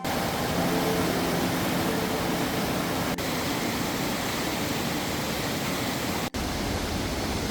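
A steady rushing noise with no clear pitch, broken by two brief dropouts, about three and six seconds in.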